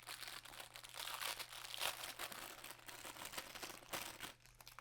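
Packaging crinkling and crackling as it is handled, stopping about four seconds in.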